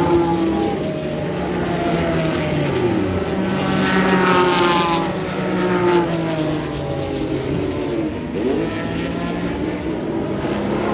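Several historic racing cars of the 1961–1975 FIA Manufacturers Championship class passing at speed, their overlapping engine notes rising and falling in pitch as each goes by. The loudest pass comes about four to five seconds in.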